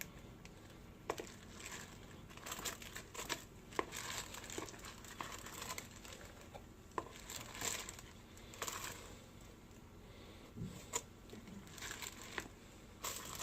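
A spoon stirring a pork roast in Coke and barbecue sauce in a rice cooker pot: faint, irregular scrapes, clicks and wet rustles.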